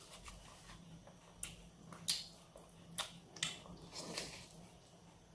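Faint, wet eating sounds: a few short smacks and clicks of someone biting and chewing roasted chicken, spaced about a second apart.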